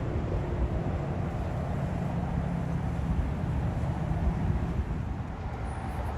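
Steady low engine rumble with a hum in it, easing off slightly near the end.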